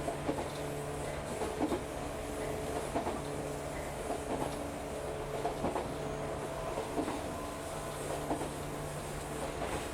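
Local electric train running on the Shinano Railway Kita-Shinano Line, heard from inside the carriage: a steady running hum with the wheels clicking over rail joints about every second and a half.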